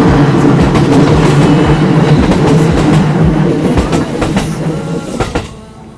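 Electric commuter train passing at close range, its wheels clacking over the rail joints in a steady rhythm over a loud running rumble; the noise drops away sharply near the end.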